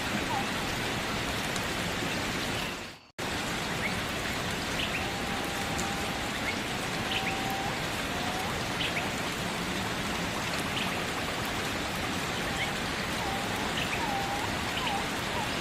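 Steady rain falling, an even hiss, with faint short bird chirps over it. About three seconds in, the sound fades out briefly to near silence and then comes straight back.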